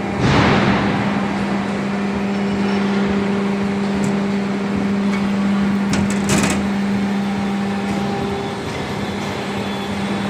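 Hydraulic power unit of a CNC hydraulic profile bending machine running with a steady hum. A brief hiss comes just after the start, and a few sharp clicks about six seconds in.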